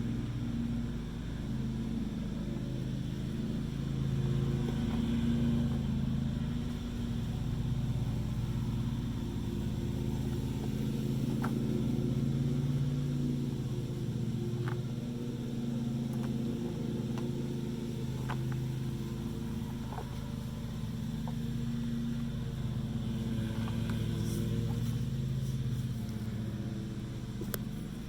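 Steady low droning hum of a running engine or motor, wavering slightly in pitch, with a few faint light clicks scattered through it.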